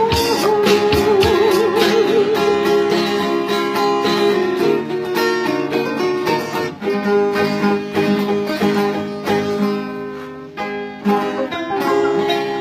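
Acoustic guitar playing in a street busker's song, with a long wavering held note about a second in. The music eases down a little around ten seconds in.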